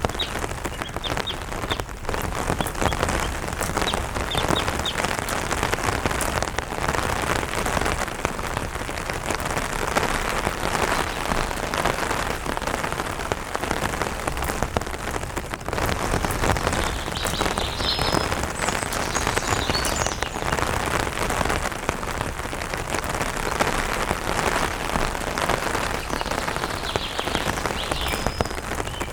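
Light rain pattering steadily on an umbrella canopy, with a few short bird chirps a few times over the rain.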